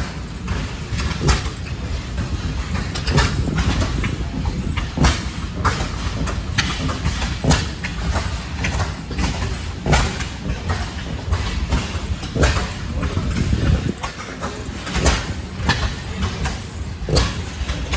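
Antique small gasoline engines running, with sharp pops every second or two at uneven spacing over a steady low rumble.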